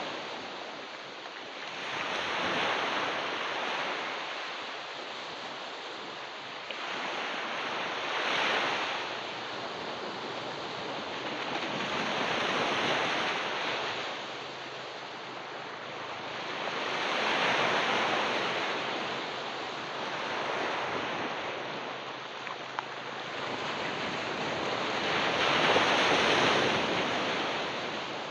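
Ocean surf: waves wash in one after another, the rush of water swelling and falling away about every four to five seconds.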